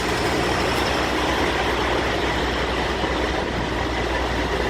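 Diesel semi-truck engine idling, a steady low drone with a steady noisy wash over it.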